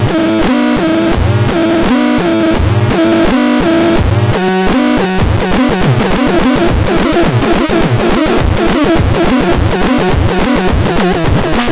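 Synthesizer playing an experimental rhythmic sequence of repeating stepped notes; about five seconds in the pattern turns denser and busier.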